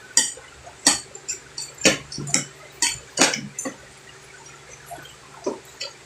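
Close-up eating sounds: a run of sharp, wet smacking clicks from chewing, about eight over the first four seconds, then quieter with a couple more near the end.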